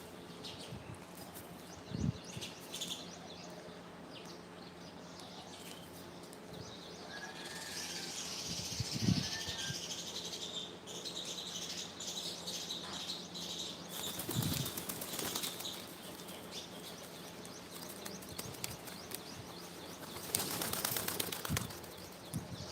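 Birds' wings flapping in a few short flurries, several seconds apart, with faint high chirping through the middle.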